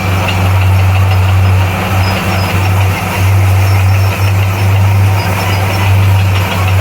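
Diesel engine of heavy earthmoving equipment running steadily with a deep, loud drone that dips briefly a few times.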